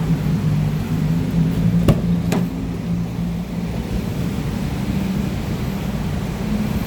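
Nissan Qashqai 1.2's engine idling steadily with a low hum, and two sharp clicks about two seconds in.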